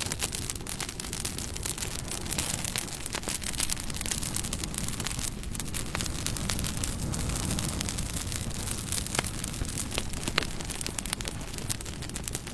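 Bonfire burning: a steady rushing hiss of flames with wood crackling and popping in irregular sharp snaps, a few louder pops standing out.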